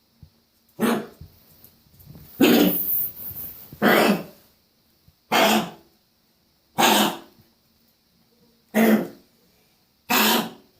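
A dog coughing and hacking in seven bouts, about one every second and a half, the second one a longer drawn-out fit, as though trying to bring something up; the owner takes it for something stuck in her throat.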